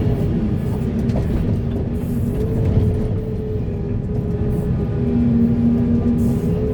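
Heavy diesel earthmoving machinery (a large hydraulic excavator working alongside dump trucks) running under load, with a steady whine over the engine rumble and a lower hum joining about five seconds in.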